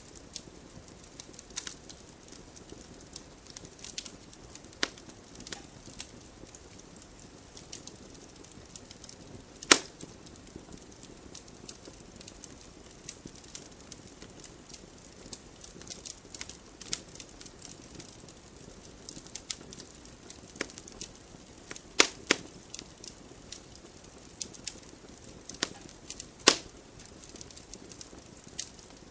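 Wood fire burning in a fireplace: a steady low rush of flame under constant small crackles, with a few sharp pops, the loudest about ten seconds in and twice more after twenty seconds.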